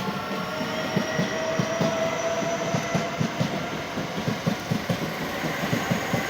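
Southeastern Class 465 Networker electric multiple unit, with a Class 466 coupled behind, running through: rapid, regular wheel clicks over the rail joints under a steady electric motor whine.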